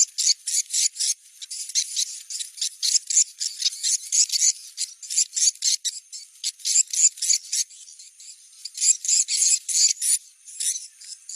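Recorded swiftlet calls used as a location-check lure: rapid, high-pitched twittering chirps in irregular bursts, with a short lull about two-thirds of the way through. The sound is played to test whether swiftlets gather at a site before a swiftlet house is built there.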